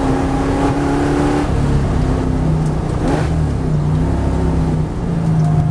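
VH Holden Commodore SS V8 engine under load, heard from inside the cabin. The revs change pitch a few times as the car slows and shifts gear, with steady road and tyre noise underneath.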